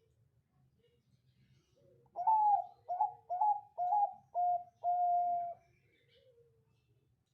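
Zebra dove (Bangkok perkutut) singing one cooing phrase about two seconds in: an opening note, a quick run of five short notes, then a longer held final note.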